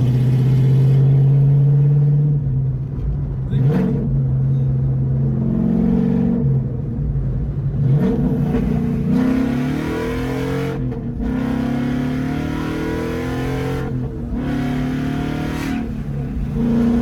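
Ford Mustang's loud, near straight-piped exhaust (mufflers not fully connected) heard inside the cabin as the car accelerates, the engine note climbing, breaking off and picking up again several times.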